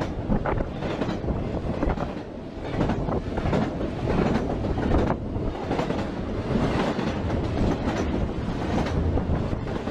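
Double-stack container freight train rolling past close by: a steady rumble of wheels on rail with irregular clacking as the wagons go over the rail joints.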